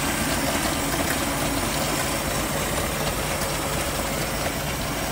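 MerCruiser 4.3 V6 marine engine idling steadily while warming up from a cold start, running smoothly on fresh spark plugs, a new distributor cap and a raised idle setting.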